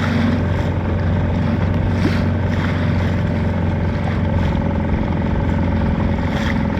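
A motorboat's engine running steadily at an even speed, heard from on board, with a constant low hum.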